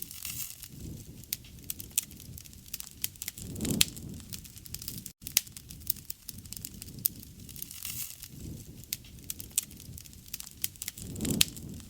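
Wood campfire crackling: frequent sharp pops and snaps over a low flame rumble that swells twice, with a split-second dropout about five seconds in.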